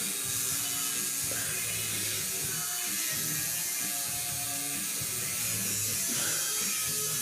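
Electric grooming clippers buzzing steadily, over background music with a shifting bass line.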